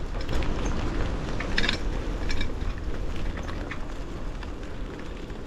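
Wind buffeting the microphone with road noise while riding a bicycle, with a few short ticks about two seconds in.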